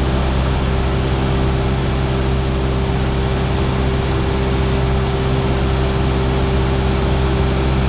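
Cessna 172R's four-cylinder Lycoming engine and propeller running steadily, heard inside the cabin as a constant loud drone with a steady hum of several tones.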